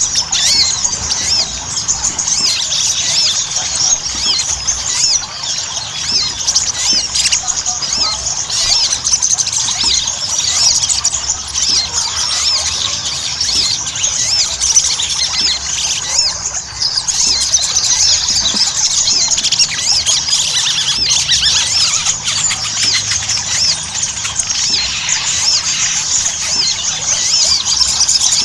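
Sogon (ruby-cheeked sunbird) singing without pause: a dense, fast chatter of high-pitched chirps and twittering notes.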